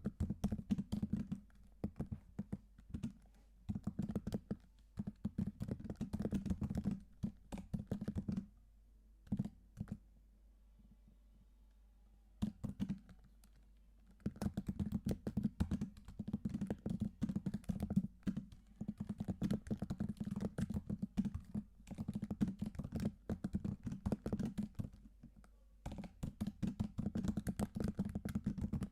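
Computer keyboard being typed on in fast runs of key clicks. Near the middle the typing stops for about four seconds, with only a couple of single keystrokes, then resumes.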